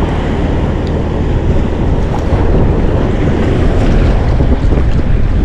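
Steady wind rumbling on the microphone, with water washing around a small fishing boat.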